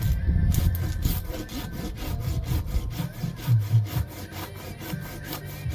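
Hand saw cutting through firewood in quick, even strokes, about four a second.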